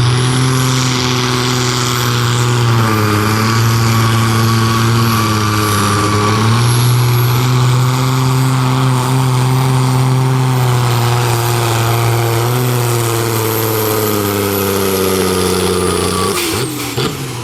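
Pulling tractor's engine running hard under load during a pull, its note dipping briefly a couple of times and recovering, with a high whine above it. About a second before the end the engine note falls away sharply as the pull comes to an end.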